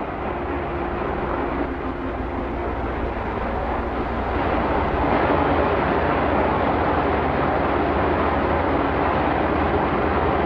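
Steady mechanical rumble and hiss of running machinery, growing louder about four seconds in.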